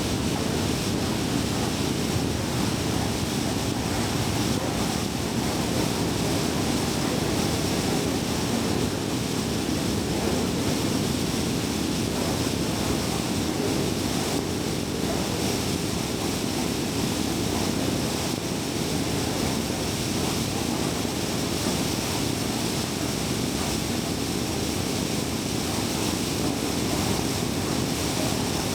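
Steady road and tyre noise of a car driving at cruising speed, with wind rush, holding at an even level.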